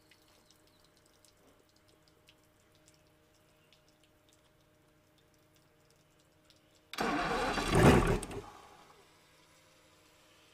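Evinrude E-TEC 300 HP V6 two-stroke outboard being cranked in a starting attempt: a sudden loud burst lasting about a second and a half, which stops without the engine staying running, the sign of this engine's no-start fault. Before it, only a faint steady hum.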